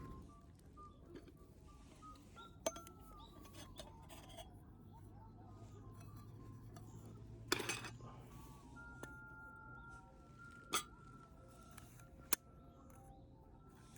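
A soft alto recorder melody plays in the background while tableware gives a few sharp clinks, the loudest about halfway through and two more near the end.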